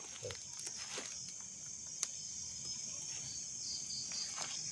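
Crickets chirring steadily in the background, with one sharp click about two seconds in.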